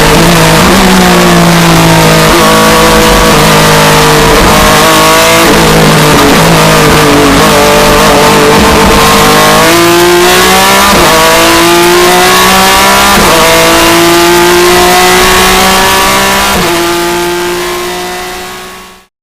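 Racing BMW E36 M3's six-cylinder engine heard from inside the cockpit, revving up and down through the gears with sudden drops in pitch at the shifts. The sound fades out over the last few seconds.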